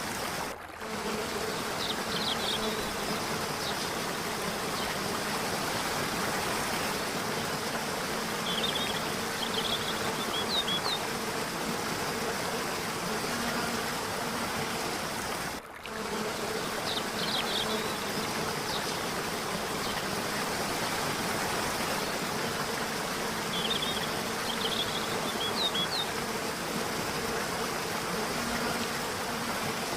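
Falling water running steadily, with a steady low hum beneath it and a few clusters of short high chirps. The sound drops out briefly twice, just after the start and about halfway, and then repeats as a loop.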